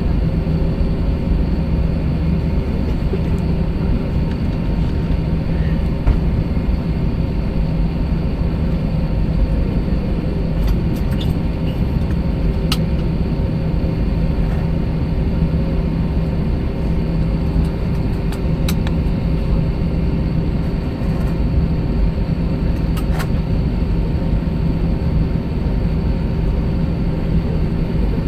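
Steady cabin noise of an Airbus A321-200 jet airliner: a constant low engine and airflow rumble with a steady hum, and a few faint clicks around the middle.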